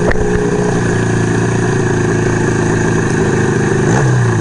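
1975 Kawasaki KZ400 parallel-twin motorcycle engine running steadily at low riding speed, with a brief change in engine pitch about four seconds in.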